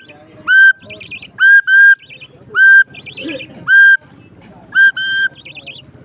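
Loud short whistled notes, each swooping up and then holding one steady pitch, repeated singly and in pairs about once a second. Softer warbled chirps come in between.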